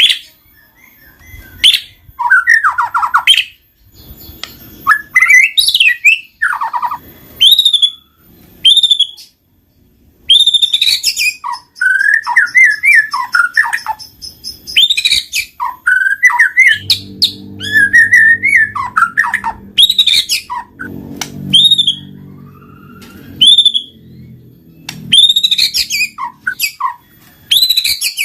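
White-rumped shama (murai batu) singing vigorously, in loud, varied phrases of sweeping whistles, chirps and rapid trills broken by short pauses. A low droning tone sits under the song for several seconds about halfway through.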